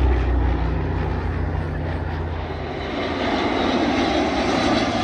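A display aircraft flying past: a low engine hum fades out about a second in, then a steady rushing engine noise carries on.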